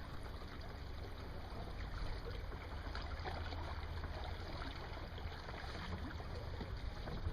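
Steady water and wind noise around a boat, with many small splashes of water lapping and a constant low rumble.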